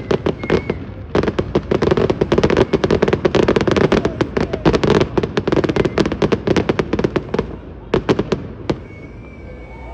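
Fireworks going off in a rapid barrage of sharp cracks and bangs, many a second. After about six seconds it thins to a few last cracks and dies down.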